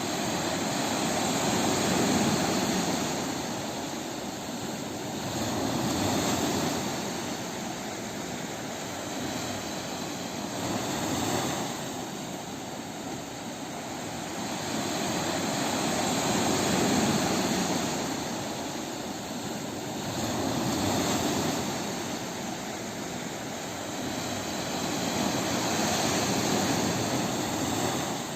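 Ocean waves breaking on a beach: a continuous wash of surf that swells and eases about every four to five seconds, six surges in all.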